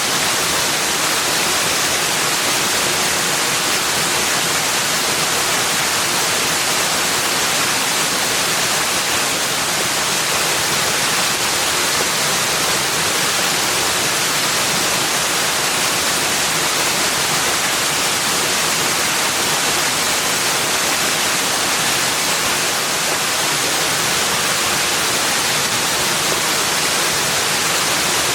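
Steady, even rushing of running water, like a waterfall or fast stream, with no other events.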